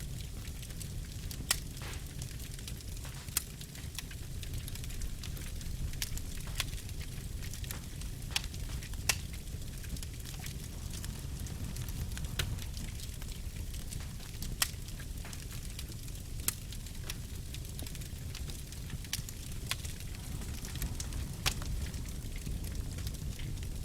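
Wood fire burning in a fireplace: a steady low rumble of flames with scattered sharp crackles and pops, one or two a second.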